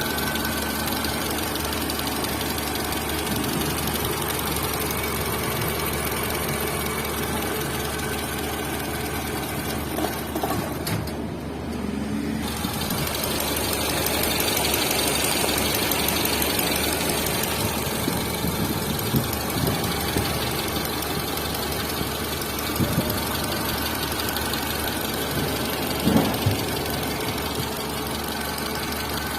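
Tata Zest engine running at idle with a steady mechanical knocking noise that is put down to the camshaft. A few short, louder knocks stand out in the second half.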